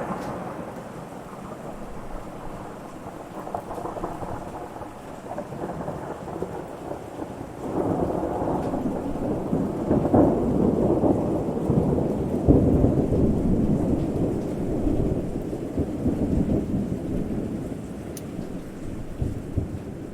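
Rolling thunder over steady rain: a low rumble swells about a third of the way in, peaks in the middle and dies away near the end.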